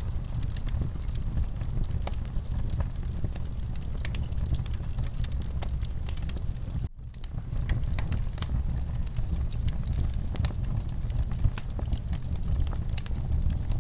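Wood fire crackling, with frequent sharp pops and snaps over a steady low rumble of burning. The sound drops out for a moment about halfway through, then carries on.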